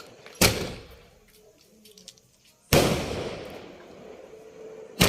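Firecrackers exploding: three loud, sharp bangs about two and a half seconds apart, each trailing off in a long echoing rumble.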